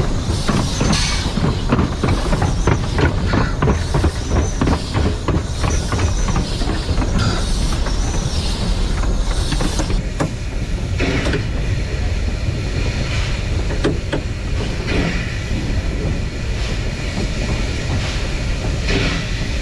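Steam train running on the rails over a steady low rumble. A quick, regular run of clicks and beats fills about the first ten seconds, then gives way to a few spaced knocks.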